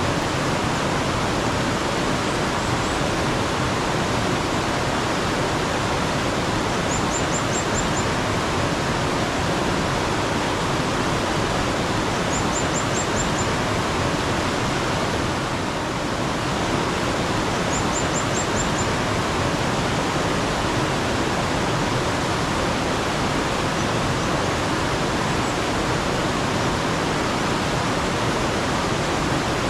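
Mountain stream water rushing steadily, with a bird giving a short, high run of about five quick notes every five or six seconds.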